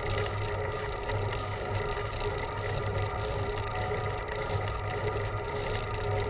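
Steady riding noise of a bicycle on the road, with a low, unevenly pulsing hum and no distinct events.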